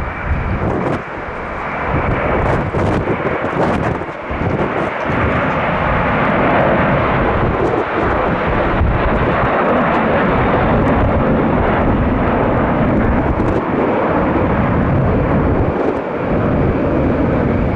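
Jet airliner engines running loud and steady, building over the first several seconds, with wind buffeting the microphone at the start.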